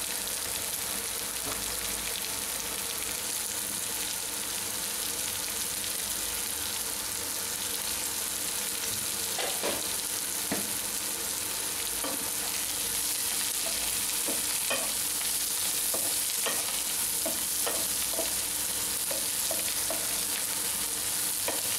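Onions, green chillies and drumstick pieces sizzling steadily in hot oil in a nonstick frying pan, with a few light clicks and scrapes of a spatula stirring them in the second half.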